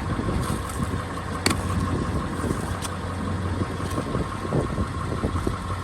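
Pickup truck engine idling in drive, a steady low hum with a faint steady high tone over it. Two sharp clicks come about one and a half and three seconds in.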